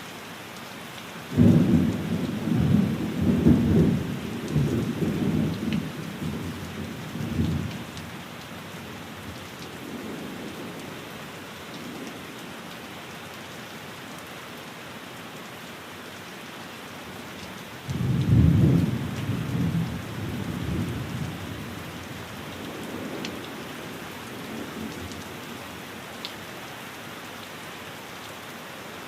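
Steady rain with two rolls of thunder: the first breaks in about a second and a half in and rumbles on for several seconds; the second comes a little past halfway and fades more quickly.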